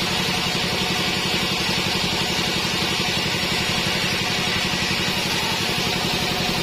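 Sawmill bandsaw and its drive engine running steadily, with a fast, even low chugging and a high hiss over it.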